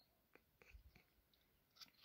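Near silence, with a few faint soft mouth clicks and lip smacks from someone eating yogurt.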